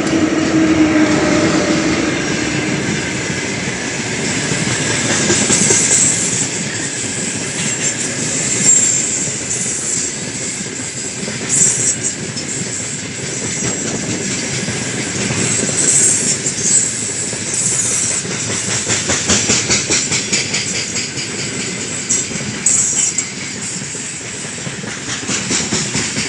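Freight train of gondola wagons rolling past, wheels clicking over rail joints in a steady rhythm, with brief high wheel squeals now and then.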